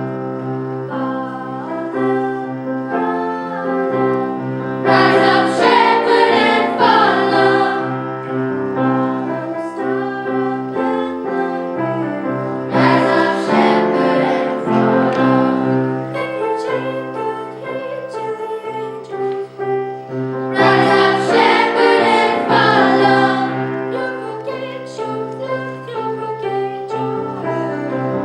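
Choir singing with piano accompaniment, swelling louder in three full passages, about five, thirteen and twenty-one seconds in.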